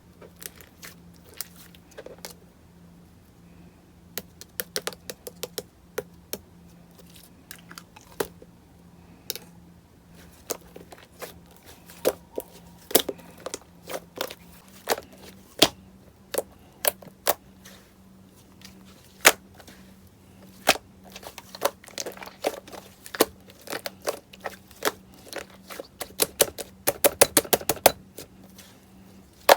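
Slime being pressed and worked by hand, giving off irregular sharp clicks and pops as air pockets burst, with a quick run of pops near the end.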